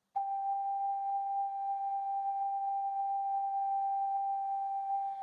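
Ocarina holding one high, pure note steady for about five seconds as the song begins.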